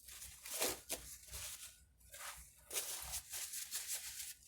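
Paper towels rustling and rubbing in a series of short, scratchy scuffs.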